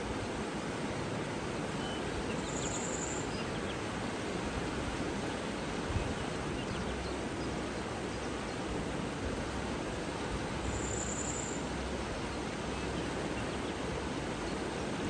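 Steady rush of flowing water in an outdoor natural setting, with two short high buzzes, about three seconds in and again about eleven seconds in.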